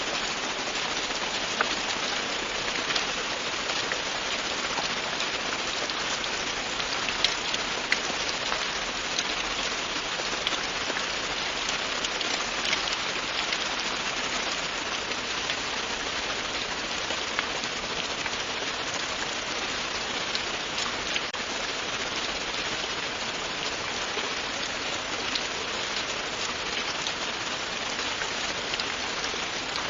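Steady, continuous rain falling, with the close ticks of individual drops hitting a surface here and there over the even hiss.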